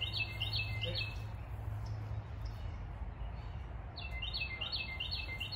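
A songbird singing a phrase of quickly repeated high chirps in the first second, then again from about four seconds in, over a steady low background rumble.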